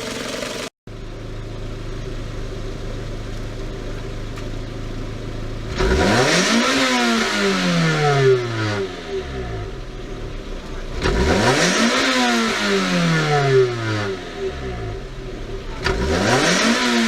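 Toyota AE111 Sprinter Trueno's 4A-GE 20-valve four-cylinder engine idling, then revved three times, each rev climbing quickly and sinking slowly back to idle. It is free-revving as part of an engine check.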